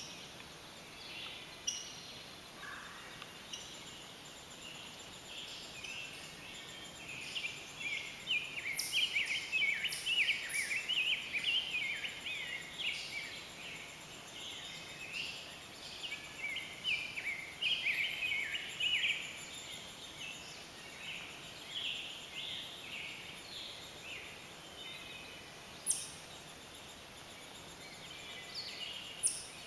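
Downy Woodpecker nestlings begging from their nest: a rapid chatter of short high notes, busiest around the middle and thinning later, with a few sharp clicks, the loudest near the end.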